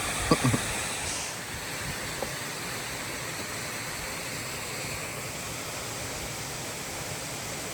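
Steady rush of flowing water from the falls and creek, with a few soft knocks about half a second in.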